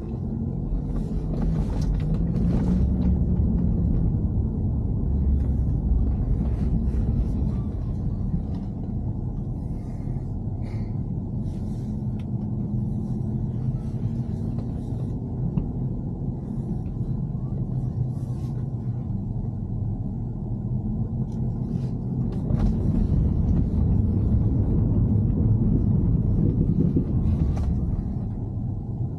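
BMW E90 car running, a steady low rumble of engine and road that swells louder twice, with scattered brief clicks and knocks over it.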